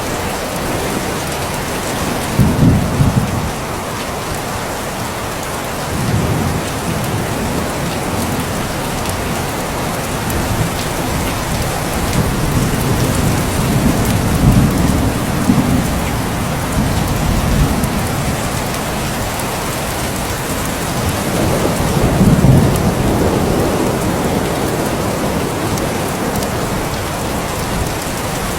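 Steady heavy rain with low rolls of thunder: a short one a couple of seconds in, another around six seconds, a longer roll in the middle, and a final one past twenty seconds.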